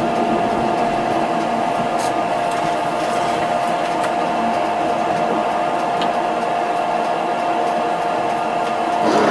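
Inside a tram: a steady electrical whine holding one pitch over a rushing noise, with faint ticks about every two seconds.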